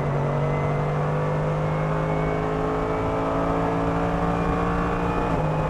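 Mercedes-AMG GT3 race car's 6.2-litre naturally aspirated V8 running at a steady, unchanging engine speed, heard from the cockpit, with a slight dip near the end.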